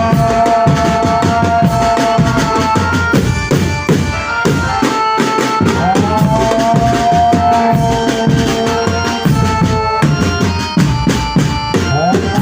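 Loud, driving jaranan-style folk music with fast hand-drum strokes and percussion. Over it a melody plays long held notes that slide up into pitch, once about halfway through and again near the end.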